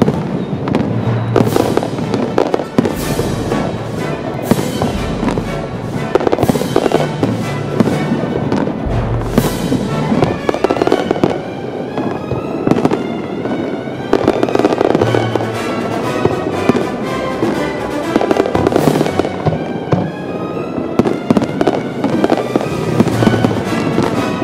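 Aerial fireworks bursting in rapid succession, sharp bangs followed by crackling, with music playing along.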